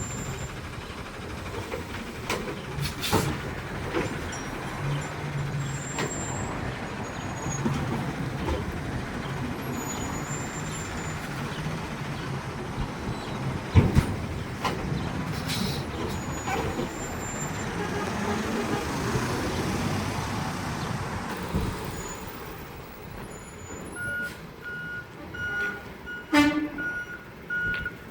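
Garbage truck working its route: the engine and mechanism run steadily, with a few knocks and one sharp bang about halfway through. Near the end a reversing beeper starts, sounding about twice a second.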